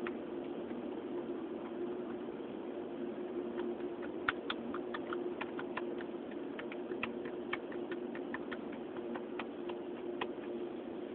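Faulty car audio system in a Hyundai i30 giving out a steady hum with irregular crackling clicks through its speakers.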